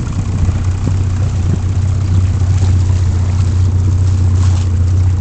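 Motorboat engine running steadily at low revs, a constant low hum.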